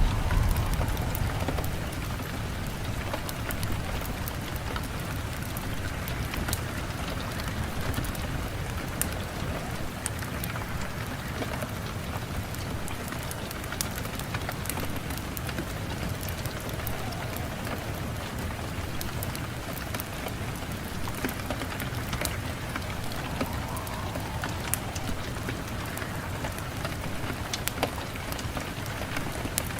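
Steady rain falling, with scattered sharp drop ticks throughout. A low rumble is stronger at the start and eases off within the first couple of seconds.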